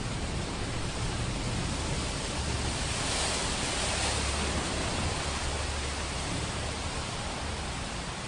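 Steady hiss of heavy rain from a thunderstorm recording, with a low rumble underneath; the hiss swells slightly about three seconds in.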